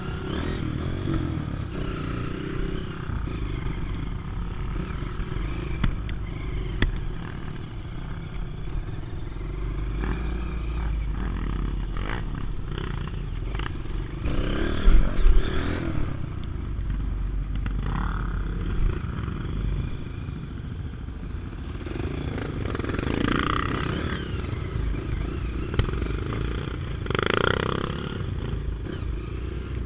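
Off-road trail motorcycle engine running, with louder swells of revving around the middle and again near the end, and some clattering.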